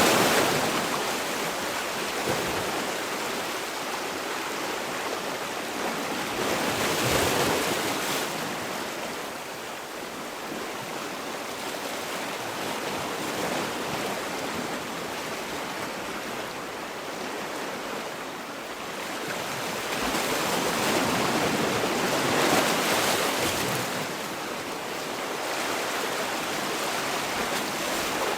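Sea waves washing on a shore: a steady rush of surf that swells about 7 seconds in and again around 22 seconds, easing off in between.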